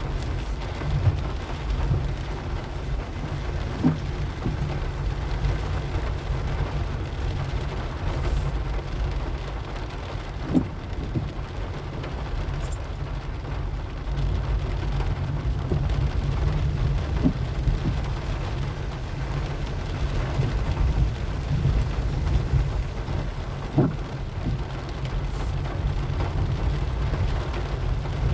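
Car driving: a steady low rumble with a fainter hiss above it, and a few short knocks.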